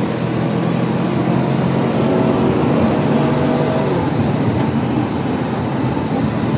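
Chevrolet Camaro engine pulling hard out of a corner, heard from inside the cabin over steady road and tyre noise; its pitch drifts slowly up and down as the driver works the throttle.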